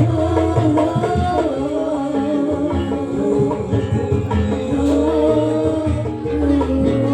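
Live Javanese jaranan ensemble music: a sliding melody line carried over drumming and low steady tones.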